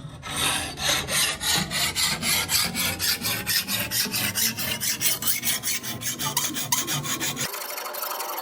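Steel scissor blade being worked back and forth by hand against an abrasive, in rapid scraping strokes about five a second. About a second before the end the strokes stop and a steady hiss takes over.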